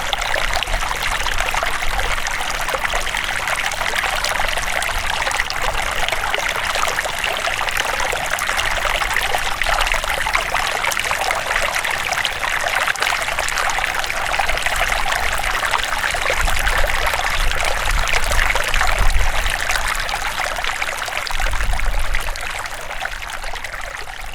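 River water flowing and trickling: a steady rush of running water that begins to fade out near the end.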